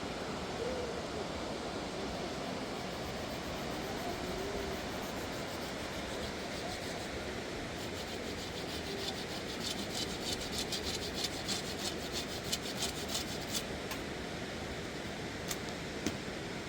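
Steady rush of the flooded Khersan River. About halfway through, a quick run of short rasping strokes, about three a second, lasts for several seconds.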